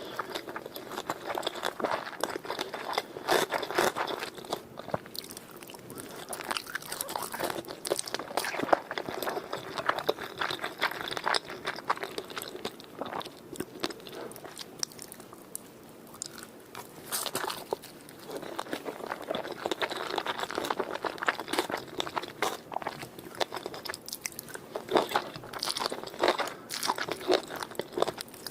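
A person biting and chewing sushi close to the microphone. Dense, irregular clicks of mouth and food noise come in bursts, easing off in a short lull about halfway through.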